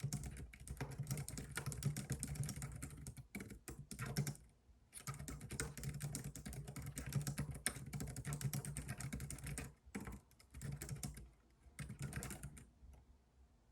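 Fast typing on a computer keyboard, a dense run of key clicks broken by short pauses about four seconds in and around ten seconds, easing off near the end.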